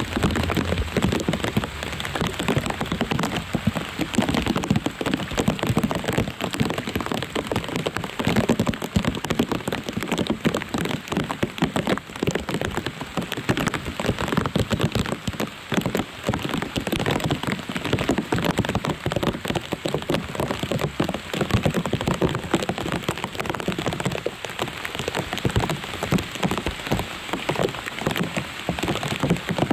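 Steady rain falling on lotus leaves: a dense, even patter of many small drops hitting.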